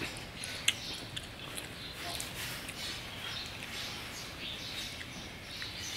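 Close-up eating sounds: a run of irregular wet crackles and mouth clicks from chewing food, with one sharp click just under a second in.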